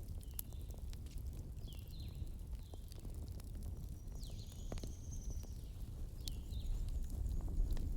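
Bonfire crackling: scattered sharp pops over a low steady rumble, with short high bird chirps several times.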